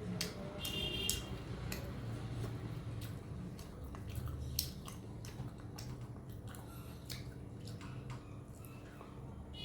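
Close-up chewing and wet mouth sounds of a person eating curry and rice, with many small smacking clicks. There is a brief high squeak about a second in.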